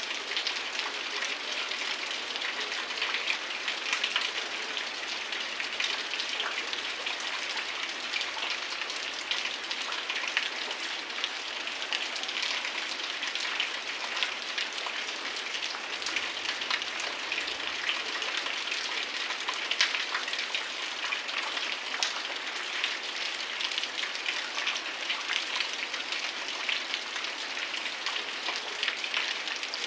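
Heavy rain falling steadily: a dense hiss made of countless drop impacts, with sharper individual drops ticking through it.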